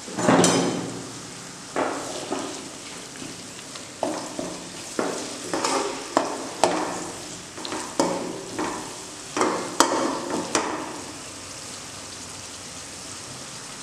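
Ginger-garlic paste going into hot oil and onion masala in a metal kadai: a loud sizzle right at the start that fades over about a second, then a wooden spatula stirring, giving a series of short scraping, sizzling strokes against the pan, settling into a steady low frying hiss near the end.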